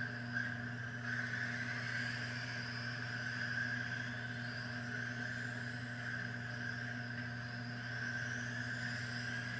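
Several R/C stadium trucks racing, with a continuous high whine from their electric motors that shifts in pitch as they speed up and slow down. A steady low hum runs underneath.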